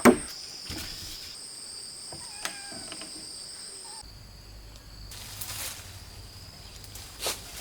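Insects shrilling steadily in high, even tones, with a sharp chopping strike right at the start and a faint wavering animal call midway. A short knock comes near the end.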